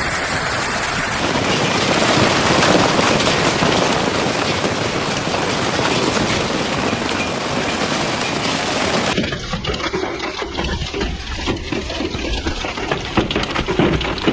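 Storm noise of heavy rain and hail pelting down in a dense, steady roar. About nine seconds in it changes to a choppier, uneven storm noise.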